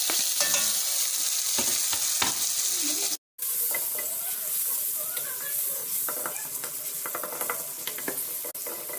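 Chopped tomatoes and green chillies sizzling as they fry in hot oil with browned onions in a steel kadhai, with clicks and scrapes of utensils against the pan. The sound cuts out briefly about three seconds in, then the frying goes on a little more quietly while a wooden spatula stirs the mixture.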